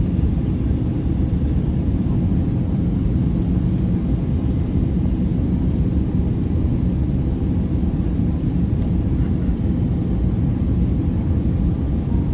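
Steady low rumble of an airliner's engines and airflow, unchanging throughout.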